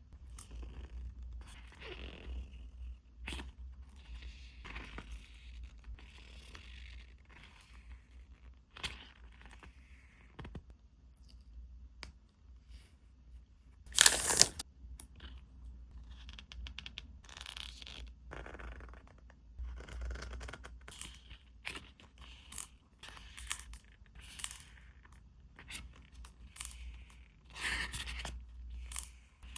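Packaging being handled and opened: a run of short, irregular rustles, crinkles and tearing sounds, with one loud rip or crackle about halfway through. A steady low hum sits underneath.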